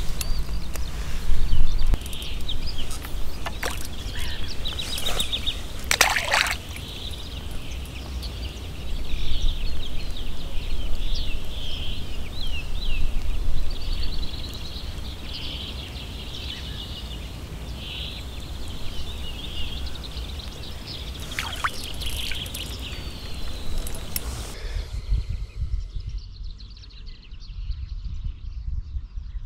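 Birds chirping and singing in quick, repeated high calls over a steady low rumble, with a few sharp clicks scattered through; about 24 seconds in the high sounds drop away abruptly and a quieter ambience remains.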